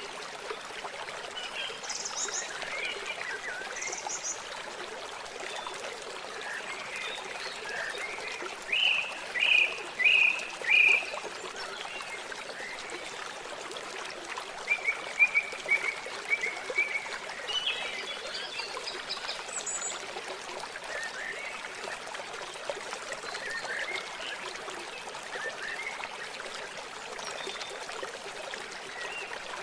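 Steady trickling, flowing water with birds chirping over it in short scattered calls, busiest in two runs a third and a half of the way in.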